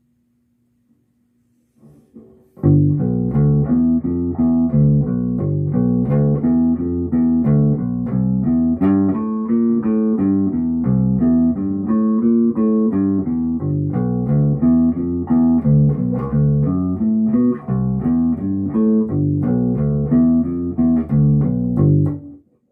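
Fender Precision Bass played through an Ampeg BA-110 bass combo amp: after a faint steady hum, a continuous line of plucked bass notes starts about two and a half seconds in and stops suddenly just before the end.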